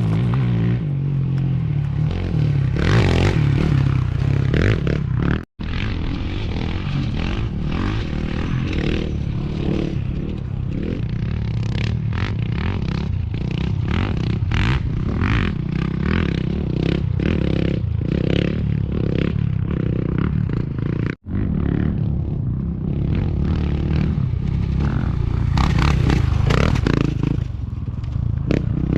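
Off-road race motorcycles passing on a dirt desert course, engines revving. The sound breaks off abruptly twice.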